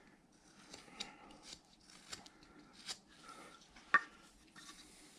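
Hand carving blade paring small cuts into a wooden figure: faint scraping strokes with a few light clicks, the sharpest about four seconds in.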